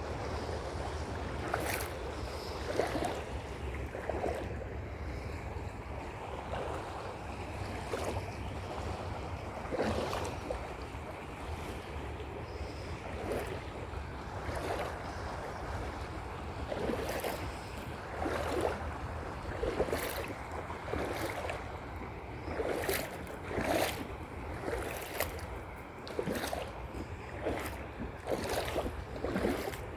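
Footsteps on a trail, roughly one step a second, over steady wind rumble on the microphone and a faint outdoor hiss.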